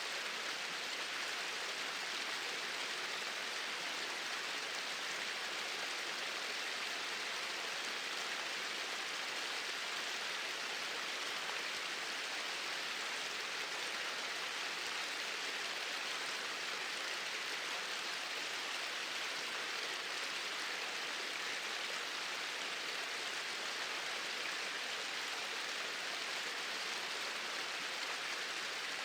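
Small waterfall splashing in a steady, unbroken rush, a hiss with most of its energy in the upper middle.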